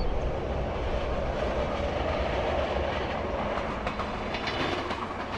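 Transit train running along the track, a steady rolling noise of wheels on rails.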